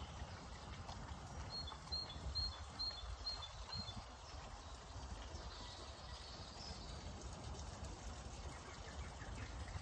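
Birds singing, one repeating a short two-note phrase about six times in quick succession, over a low steady rumble.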